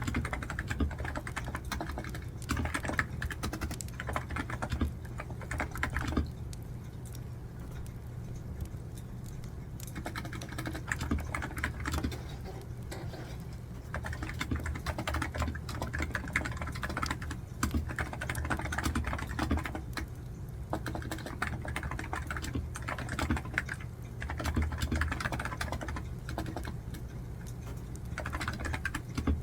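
Typing on a computer keyboard: quick runs of key clicks broken by short pauses, over a steady low hum and faint crackling of a wood fire.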